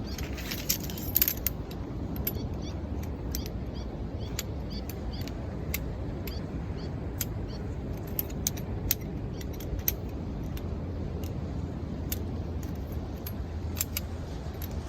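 Wood campfire crackling with frequent sharp, irregular pops, a dense burst of them about a second in, over a steady low rush of waves.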